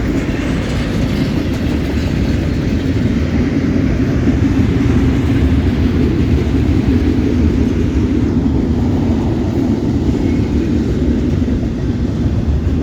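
Intermodal freight train's cars rolling past close by: a steady, loud rumble of steel wheels on the rails.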